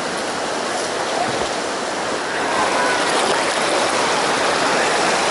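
Flowing water rushing steadily, like a fast stream or small rapid.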